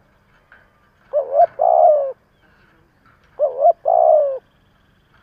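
Spotted dove cooing: two phrases about two seconds apart, each a quick two-note coo followed by a longer coo that falls in pitch. It is the urging 'thúc' song used as a decoy call to provoke wild male doves.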